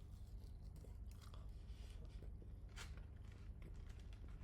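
Faint chewing of food by a person eating, with a couple of soft crunches, one about a second in and one near three seconds in.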